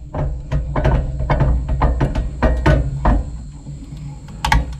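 Sawmill toe board being cranked up under the end of a log: a run of ratchet clicks, about four a second, with a low rumble beneath. The clicks pause for about a second, then a few more come near the end.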